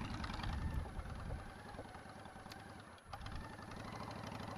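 A vehicle engine running at low revs, dropping away briefly about three seconds in and then picking up again.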